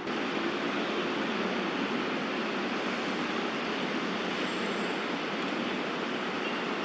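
Steady outdoor background rush with no distinct events and no bird calls.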